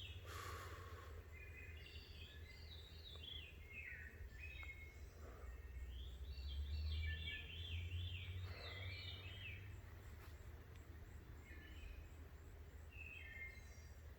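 Songbirds singing in several short, quick warbling phrases, over a low steady rumble that swells around the middle.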